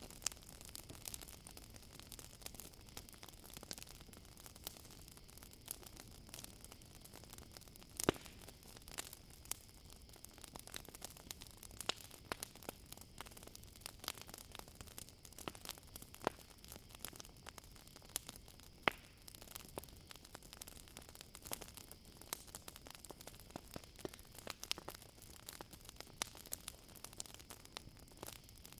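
Campfire crackling with frequent sharp pops and snaps, the loudest about 8 and 19 seconds in, over a steady high chirring of crickets.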